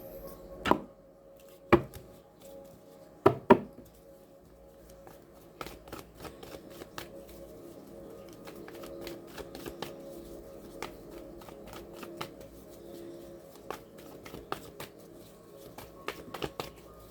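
A tarot deck being handled and shuffled: four sharp card snaps in the first few seconds, then a long run of light, quick clicks as the cards are shuffled.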